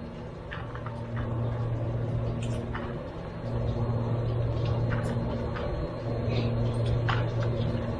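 Steady low hum from a running motor or engine, with a few faint clicks about a second or two apart. No gunshot is heard.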